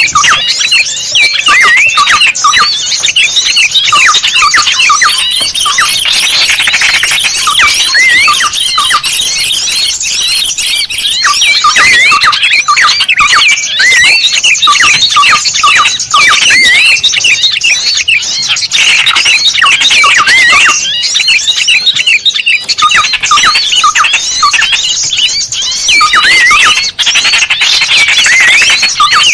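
A dense, loud chorus of many small birds calling at once, quick rising and falling chirps overlapping without a break: a bird-lure recording meant to draw small birds in.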